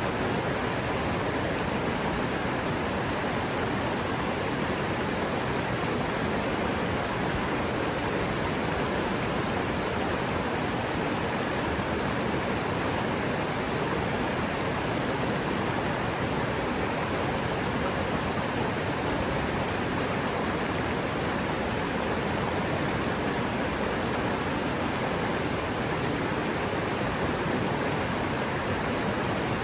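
River water running steadily, an even rushing noise with no let-up.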